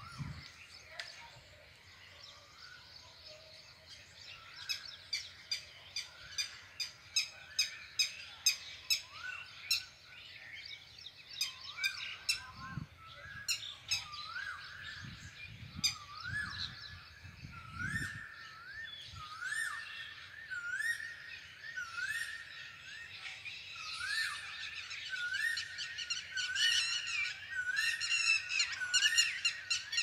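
Birds chirping: runs of quick, high, sharp chirps. From about eleven seconds in, a short rising whistled note repeats about once a second, and the chirping grows busier near the end.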